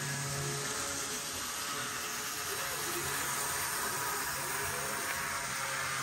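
Athearn model train locomotives running under power on track, their electric motors and gear drives giving a steady whirring grind, with a faint wavering whine over it. The grinding comes only under power: pushed by hand, the locomotives make no noise.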